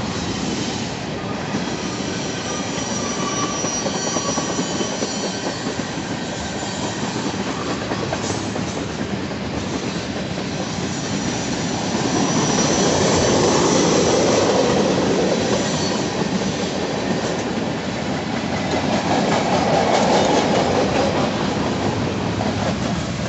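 Union Pacific freight train rolling past on the rails: steady wheel-and-rail rumble and clatter, with faint high-pitched wheel squeals a few seconds in and again around the middle. It grows louder about halfway through.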